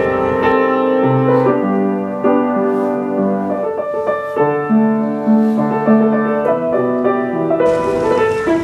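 Background music: piano playing a melody of held notes changing about every half second.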